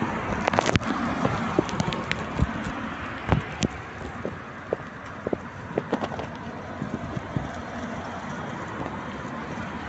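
Rain falling with a steady hiss, with irregular sharp drops tapping, thickest in the first several seconds.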